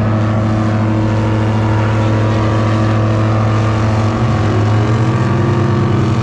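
Airboat engine running loud and steady at an even pitch. About four seconds in, a second engine joins at a slightly different pitch, and the two beat against each other.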